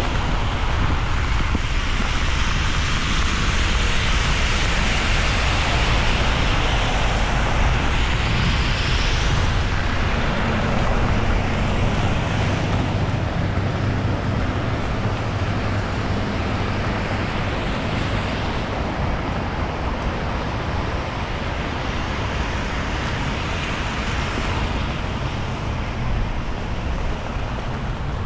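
Street traffic: cars passing on a wet road, a steady hiss over a low engine rumble that swells and fades a few times.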